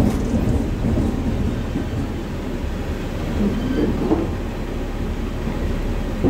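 Steady low rumble of a train running along the track, heard from on board.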